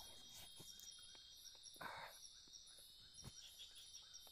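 Faint, steady forest insect chorus with a high pulsing trill, with a short soft rustle about two seconds in and a few faint ticks.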